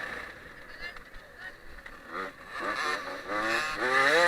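Husqvarna TC 65 two-stroke motocross bike accelerating, its engine starting about two seconds in and rising in pitch in several short climbs, getting louder toward the end.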